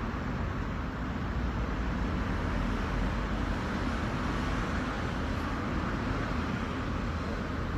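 Steady urban road traffic: a continuous low rumble of vehicles, a little louder through the middle.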